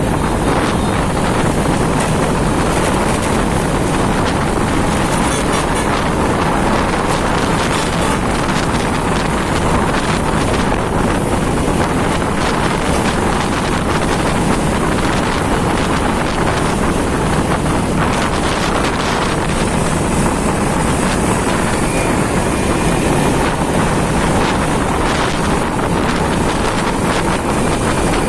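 Steady wind rush on the microphone of a moving motorcycle, mixed with the bike's running and road noise.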